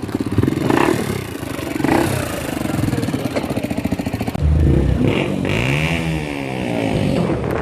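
Modified car engines and exhausts as cars drive past. About four and a half seconds in, a louder engine comes in and revs, its pitch rising and then falling.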